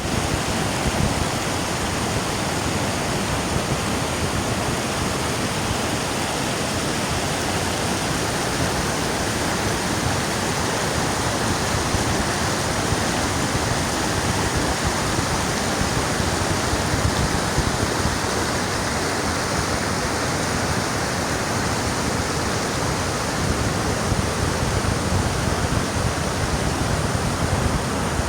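Rushing water, a steady unbroken wash of noise across low and high pitches.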